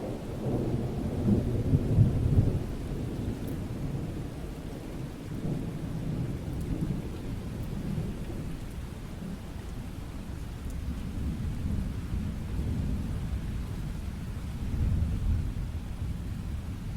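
Thunderstorm: steady rain with rolling thunder rumbling underneath, the rumble swelling about two seconds in and again near the end.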